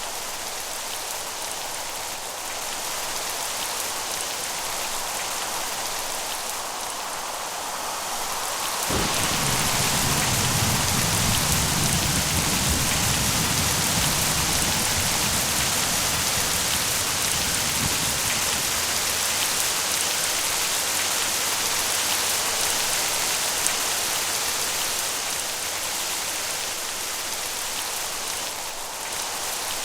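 Steady rain falling. About a third of the way in, a rumble of thunder breaks in suddenly, rolls for several seconds and slowly fades under the rain.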